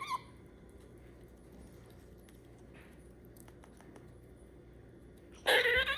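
A pet squirrel, a female in heat, vocalizing while she eats. A brief pitched call ends right at the start, and a louder squeaky call that wavers up and down comes about five and a half seconds in. In between are faint small ticks of her chewing.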